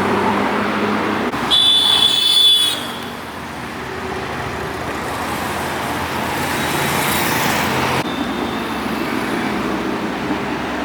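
Road traffic passing steadily, with a vehicle horn blaring for about a second near the start.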